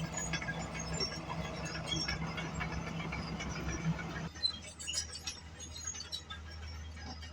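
Bulldozer engine running steadily with metallic clinks, rattles and squeaks from the machine. About four seconds in the sound changes abruptly to a lower, quieter hum.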